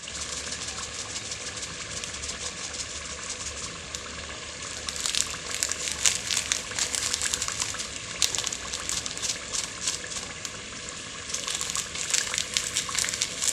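An onion, tomato and pepper stew base sizzling and crackling as it fries in oil. The crackle grows louder about five seconds in and again near the end.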